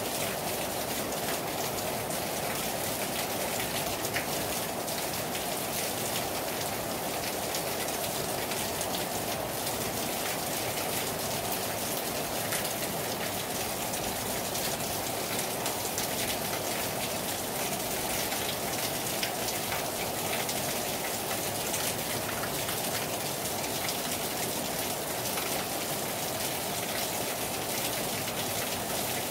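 Heavy rain falling steadily on a terrace: a dense, even patter of many drops hitting hard surfaces, with no let-up.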